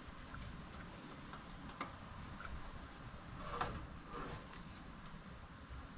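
Faint, scattered light clicks and taps of differential parts being turned by hand, the carrier and spider gears shifting, with a slightly louder clatter about three and a half seconds in.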